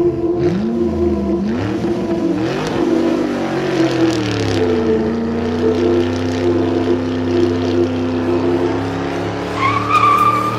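Car engine sound effect revving up and down through the gears, then holding a steady pitch as if cruising. A high wavering tone joins near the end.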